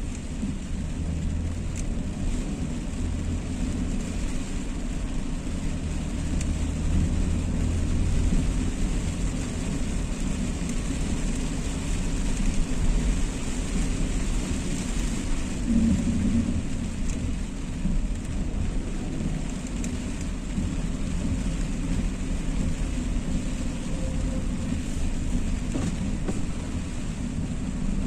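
A car driving in rain: a steady low rumble of engine and tyres, with an even hiss of rain and spray from the wet road.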